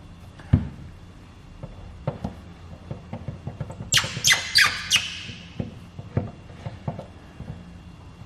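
Hand spray bottle of tack solution squirted four times in quick succession, about four seconds in, amid light taps and handling clicks, with a single low thump near the start.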